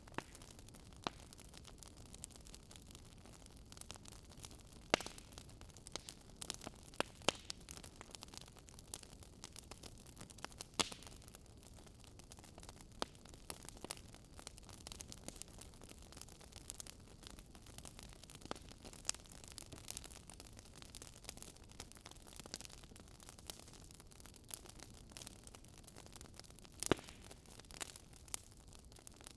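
Wood fire crackling in a fireplace: irregular sharp pops and snaps over a low steady hiss of burning, with the loudest pops about 5, 7, 11 and 27 seconds in.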